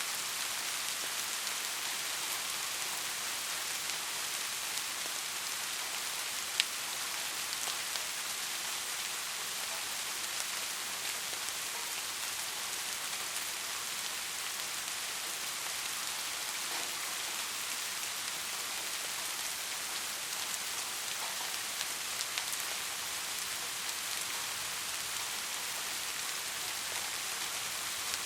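Steady rain falling: an even hiss with scattered drop ticks, one sharp louder click about six and a half seconds in.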